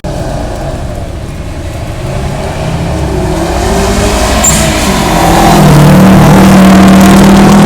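Car engine at high revs, getting louder over the first few seconds and then held loud at a steady pitch.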